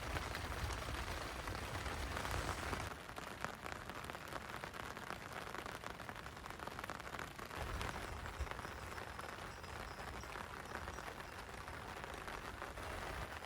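Light rain falling on a closed tent, heard from inside: a steady hiss of many small drop ticks on the fabric. A low rumble runs under it for the first few seconds and again from about halfway on.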